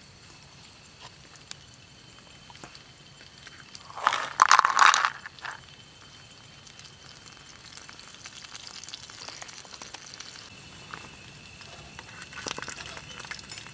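Eels deep-frying in hot oil in a small pot: a faint sizzle with scattered crackles, and a loud burst of crackling about four seconds in that lasts about a second and a half.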